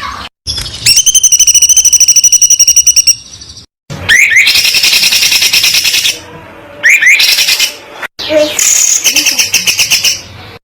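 Songbird song: very fast, high-pitched trills and rising whistled sweeps, in several separate takes that cut off abruptly, with brief silent gaps between them.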